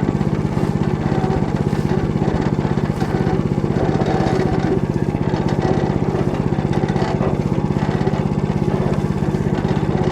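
Walk-behind tractor engine running steadily under load, with a rapid, even firing beat, as its Motor Sich rotary cutter tills barley stubble.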